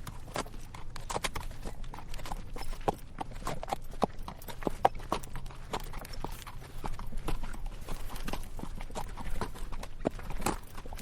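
Horse walking on a rocky dirt trail, its hooves clip-clopping in an uneven rhythm of about two to three strikes a second.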